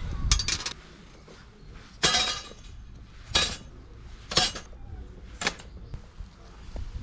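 About five short clinks and clatters of camp cookware and utensils being handled, roughly a second apart.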